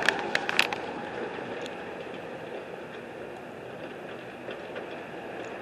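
A few sharp knocks in the first second, then a steady rumble of street and traffic noise.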